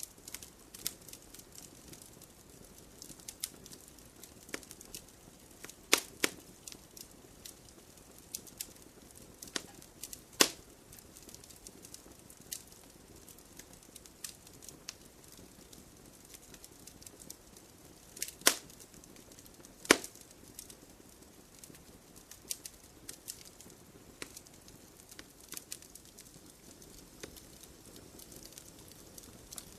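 Wood campfire crackling: irregular sharp pops and snaps over a faint steady hiss of burning, with a handful of much louder pops scattered through.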